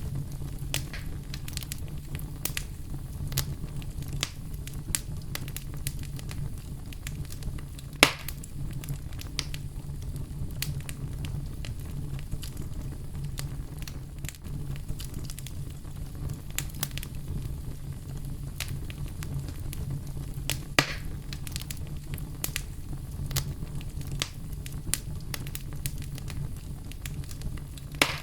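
Campfire burning: a steady low rumble with frequent small crackles and two louder pops, one about 8 seconds in and one about 21 seconds in.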